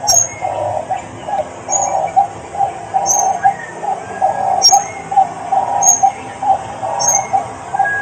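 Birds calling: a low call repeated about twice a second, with short high chirps about once a second over it.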